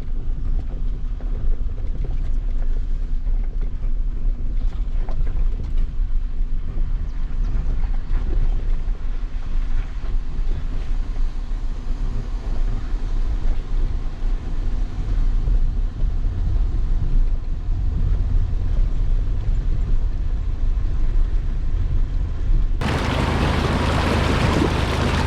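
A truck's engine and drivetrain rumbling low and steady as it drives, with wind buffeting the microphone. About 23 seconds in, a loud rushing of water cuts in suddenly.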